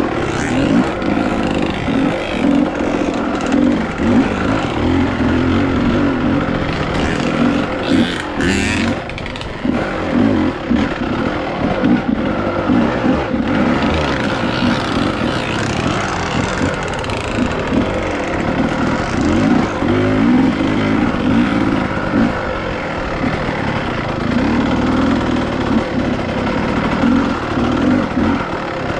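Dirt bike engine running as the bike is ridden on a trail, its revs rising and falling throughout, with a short burst of noise about eight seconds in.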